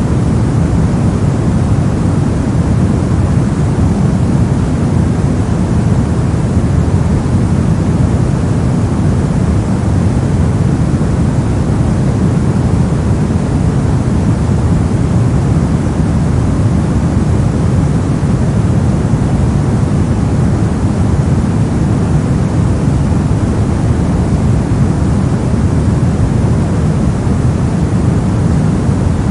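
Loud, steady generated noise track sold as white noise, unchanging throughout; its weight sits low, so it sounds like a deep rush rather than a bright hiss.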